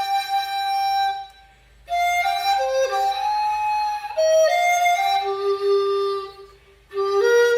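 A B-flat bamboo dizi playing a slow melody in short phrases, with rich overtones. Two brief breaths of silence split the phrases.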